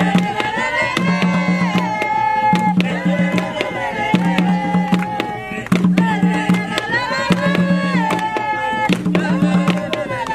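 Jongo music: hand drums beat a steady rhythm, with a deep ringing drum note about once a second under sharp slaps and claps. Voices sing long held notes over it.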